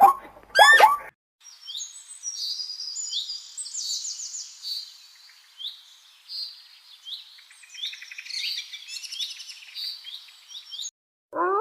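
Songbirds singing: a dense run of quick, high chirps and trills lasting about nine seconds. It follows a brief pitched animal call in the first second, and a steady pitched howl cuts in near the end.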